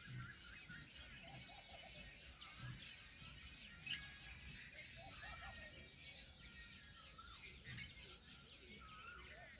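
Faint chorus of many small birds chirping and twittering at once, with quick overlapping calls throughout.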